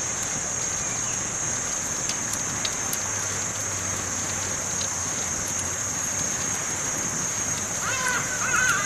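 Campfire burning, a steady hiss with scattered small crackles and pops. Near the end a brief pitched sound like a voice cuts in.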